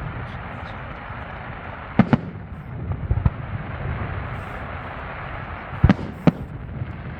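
Aerial fireworks bursting over a steady hiss of crackle and rumble: a quick pair of sharp bangs about two seconds in, a few lighter reports around three seconds, and the loudest pair of bangs near the end.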